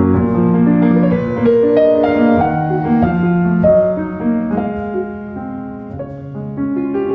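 Background piano music, a slow melody of sustained notes that grows softer in the second half.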